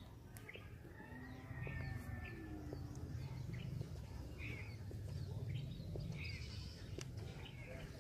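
Outdoor birds chirping in short repeated calls about every second or two, over low background noise, with a few faint sharp clicks.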